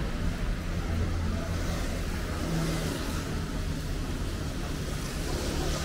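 City street traffic: vehicles running with a steady low hum and an even hiss.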